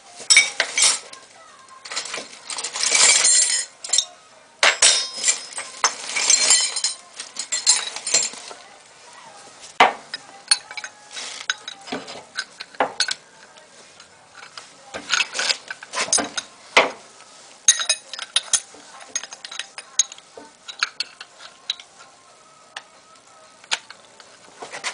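Metal tools and parts clinking, clattering and scraping during brake work, with a few longer rattling stretches in the first eight seconds and then scattered sharp clicks.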